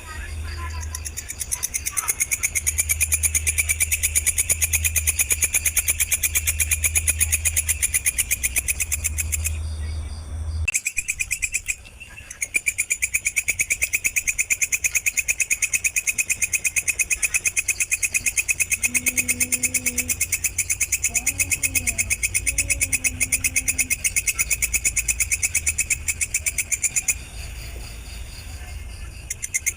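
A rapid, evenly pulsed trill of high chirps, many per second, from a masteran song-tutor recording; it breaks off briefly about ten seconds in and again near the end, over a low hum.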